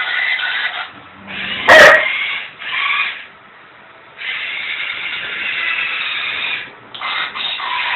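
A dog gives one sharp, loud bark about two seconds in. Around it are stretches of thin, tinny electronic sound from a Dalek toy, with a short lull in the middle.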